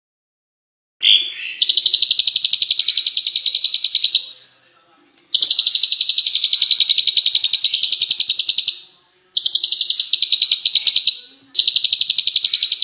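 A songbird's rapid, high-pitched trill of sharp repeated notes, in four bursts of two to three and a half seconds each with short pauses between them, starting about a second in: sharp 'tembakan' song of the kind played as masteran to train caged songbirds.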